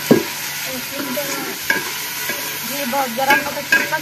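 Chicken frying and sizzling in hot ghee in a steel pot, with a metal ladle stirring it and clanking against the pot several times.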